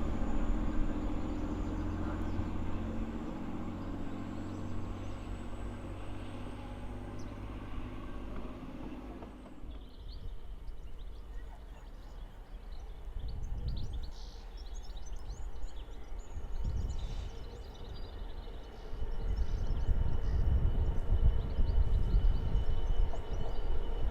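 A diesel train's engine running with a steady low hum that dies away about ten seconds in. After that come uneven low rumbling and a few faint high chirps, with the rumble growing louder near the end.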